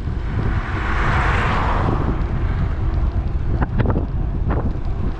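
Wind buffeting a bike-mounted action camera's microphone while riding, a steady low rumble. A vehicle passing swells and fades about a second in.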